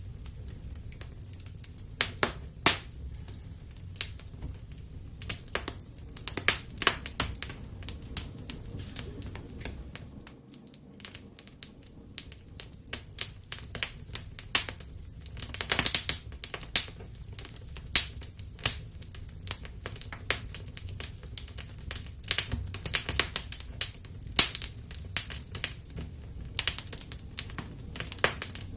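Wood fire in a fireplace crackling, with irregular sharp pops, some much louder than others, over a steady low rumble of the flames.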